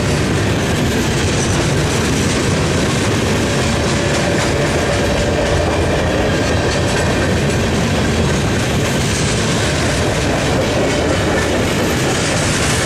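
A train rolling along the track: a steady, loud rumble of railcar wheels on the rails, with a faint thin tone joining about three seconds in.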